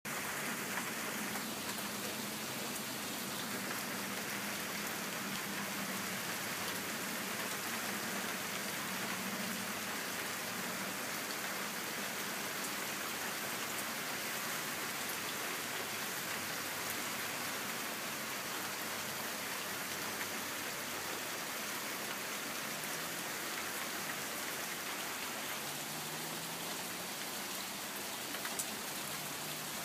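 Steady rain falling, a constant hiss with scattered drops hitting surfaces. A few louder drop ticks near the end.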